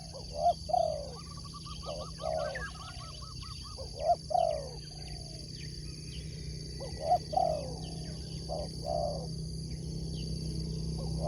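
Spotted doves (tekukur) cooing: short, falling coos in groups every few seconds, with a quick run of small higher chirps about a second in.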